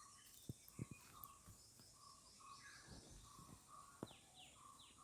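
Faint bird calls: repeated short notes with a few quick falling chirps, over a low outdoor background, with several soft knocks.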